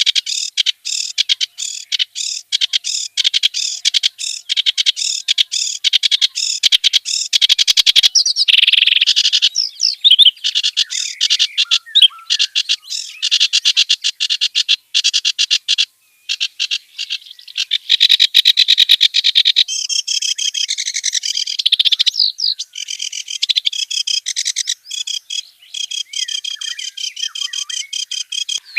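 Reed warbler (kerak basi) singing a fast, varied song of harsh chattering and whistled notes that runs almost without a break, with a short pause about 16 seconds in.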